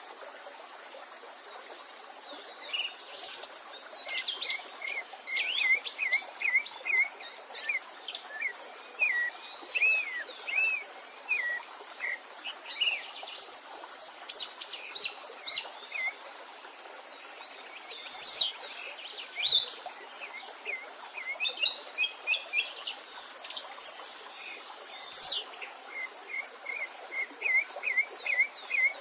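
Songbirds singing in bouts of quick chirps and whistled notes over a steady rush of stream water, with a run of short repeated notes near the end.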